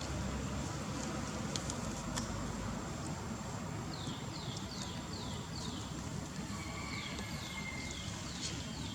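Steady low rumble of outdoor background noise. Two runs of short, high, falling chirps repeat about three times a second, one in the middle and one near the end.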